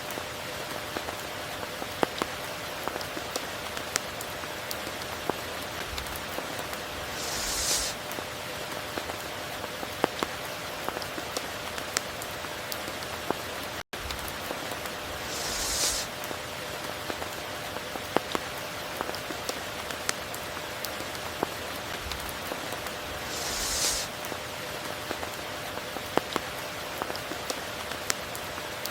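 Steady rain falling, with scattered sharp drip ticks and a brief hissing swell about every eight seconds, three times in all. The sound cuts out for an instant about halfway through.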